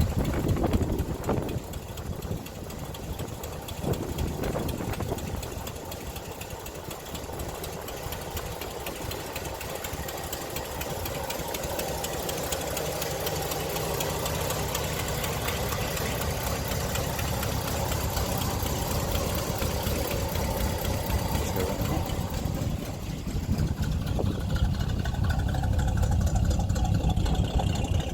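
A 1969 Buick Riviera's 430 V8 idling steadily, shortly after a cold start. A couple of short knocks sound in the first few seconds, and the low rumble grows louder near the end.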